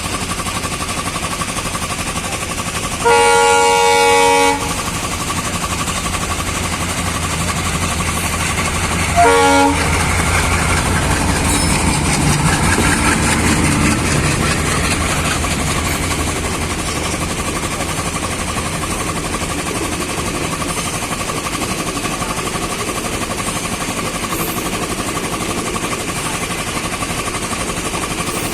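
Train running, with a steady rumble and rail noise; its horn sounds twice, a blast of about a second and a half about three seconds in and a short toot about nine seconds in.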